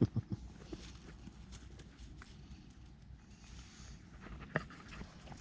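A puppy gives a single short yelp about four and a half seconds in, over a low rumble of wind on the microphone, with a few soft knocks just after the start.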